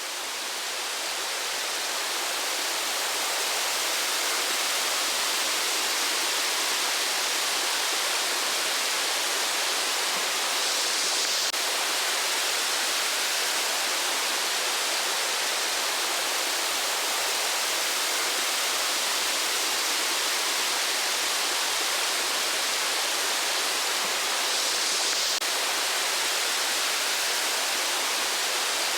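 Rushing water of a waterfall, a steady even rush, fading up over the first few seconds.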